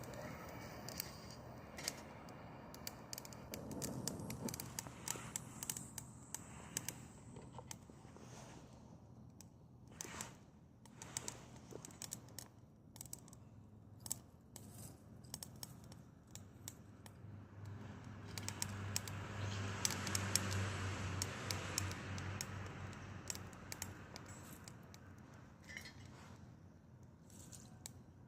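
Dead branches crackling and snapping as they burn in a Solo Stove wood-burning stove, with irregular sharp pops over a low rush of flame that swells for a few seconds past the middle.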